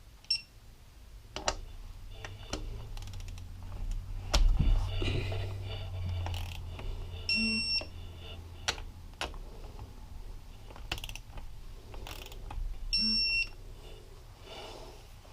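Bolts being tightened with hand tools on a Yamaha YFZ450R engine, with scattered ratchet clicks and metal-on-metal knocks. Two identical short electronic beeps come about five and a half seconds apart, and a low hum runs through the middle.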